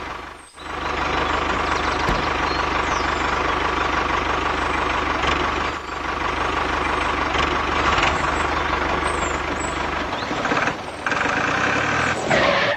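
Tractor engine running steadily, with a brief drop about half a second in.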